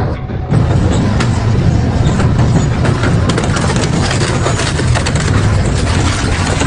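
Double-shaft metal shredder running under load, tearing through metal: a constant stream of sharp cracks and snaps over a steady low hum. It gets louder about half a second in.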